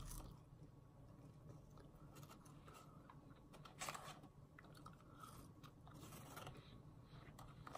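Faint chewing of McDonald's french fries, with a few short crunchy sounds, the most noticeable about four seconds in.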